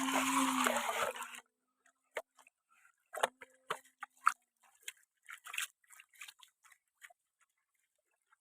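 Brief buzzing hum with a rustle at the start, then scattered short clicks and scrapes of plastic toy vehicles being handled.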